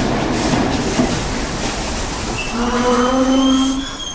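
Subway train running through a station, a steady rumble and rattle of cars on the track. About two and a half seconds in, a drawn-out pitched squeal or tone joins it, which stops just before the end.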